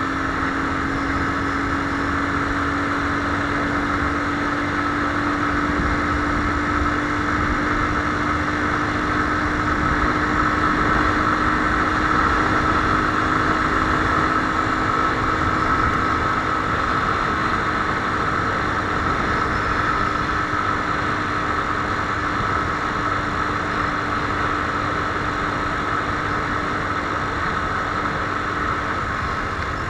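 Viper R2 motorcycle engine running at steady revs, its pitch creeping up slightly in the first half and then holding even.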